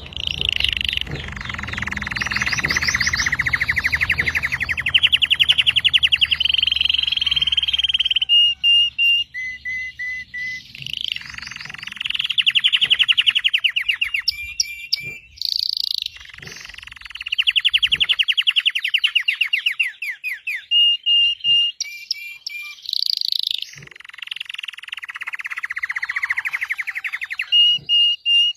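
Red-factor domestic canary singing: several long rapid rolling trills of a few seconds each, broken by short clear whistled notes between the phrases.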